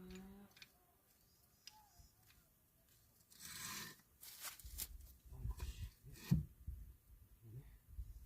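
A cow's moo trailing off, then a brief scraping rush, a few sharp knocks and a run of low thuds, like something heavy being handled.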